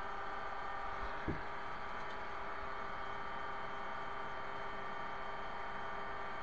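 Steady mechanical hum with several fixed tones, and one faint knock about a second in.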